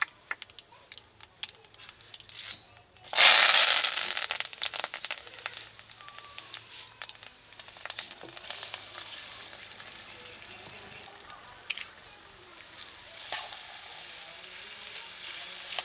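Food frying in hot oil in a pot over a wood fire. About three seconds in, ingredients hit the oil with a loud burst of sizzling that settles into a steady sizzle. The sizzle swells again as diced potatoes and then chickpeas are tipped in.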